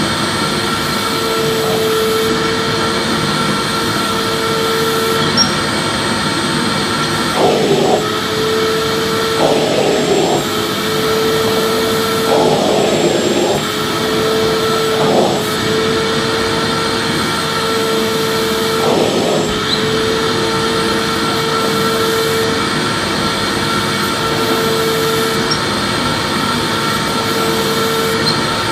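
Vacuum cleaner running steadily: a constant motor whine over a dense rush of air. A few brief, noisier swells come between about seven and twenty seconds in.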